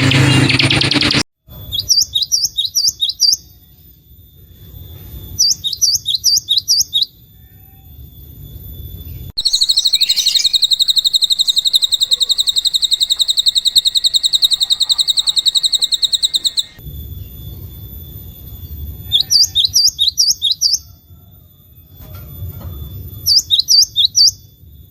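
Recorded songbird calls: repeated bursts of about eight quick, high rising chirps, with a long, fast, even trill for several seconds in the middle. A loud noisy sound from the previous track cuts off about a second in.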